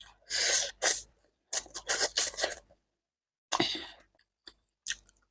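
Instant noodles slurped close to the microphone in several quick sucking bursts, with a couple of small clicks near the end.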